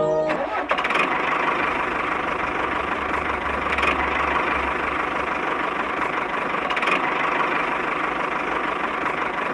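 Small motor of a DIY miniature vehicle model running steadily: an even, dense whirr that starts just after the music cuts out.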